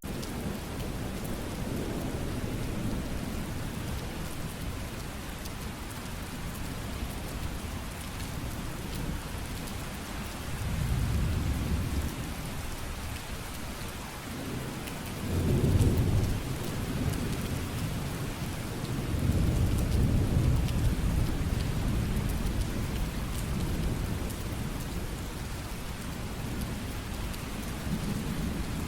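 Steady heavy rainfall, with thunder rumbling low three times; the middle roll is the loudest.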